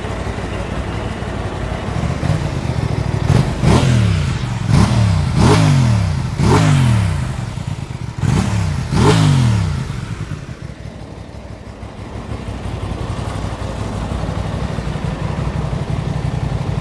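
Aprilia RS 660's parallel-twin engine idling through the exhaust. It is blipped about six times in quick succession, each rev rising sharply and falling back, then it settles back to a steady idle.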